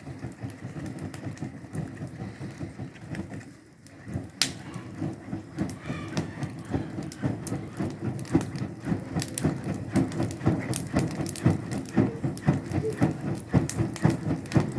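Heavy rain falling, a dense patter of sharp drop hits. It eases briefly about four seconds in, then picks up again.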